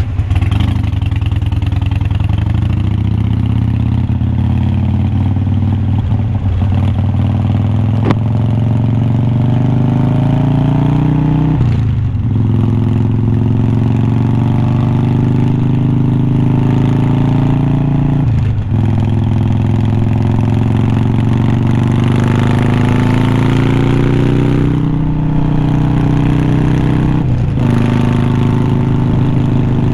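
2020 Harley-Davidson Iron 1200's air-cooled V-twin running through unbranded glass-pack-style slip-on mufflers under acceleration. The exhaust note climbs in pitch, dips sharply at each of several gear changes, then climbs again. A single sharp click comes about eight seconds in.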